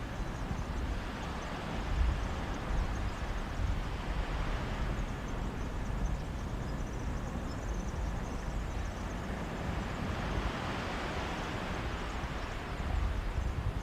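Mediterranean sea waves washing onto a beach, with wind on the microphone as a steady low rumble; the surf swells about a second in and again around ten seconds in.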